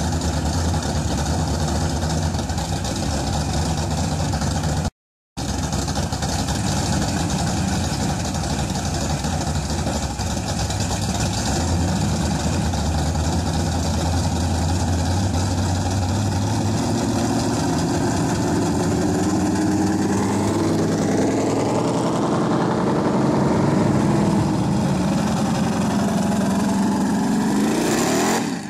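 Car engine idling steadily, then revved, its pitch climbing gradually for several seconds before it cuts off suddenly. There is a brief gap of silence early on.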